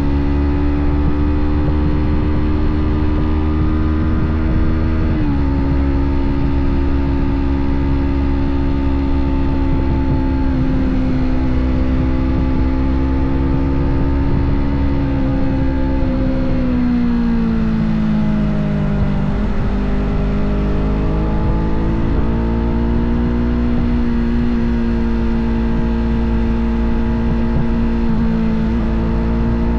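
Yamaha sport bike's parallel-twin engine running hard at high revs, heard on board. The pitch holds fairly steady, drops a little about five seconds in, sinks lower around two-thirds of the way through, then climbs back up, over a steady low rumble.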